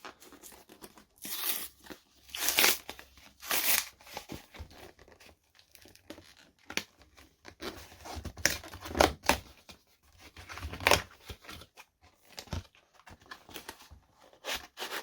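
Plastic shrink wrap being torn off a boxed Magic: The Gathering Commander deck and crinkled, in irregular bursts of tearing and rustling.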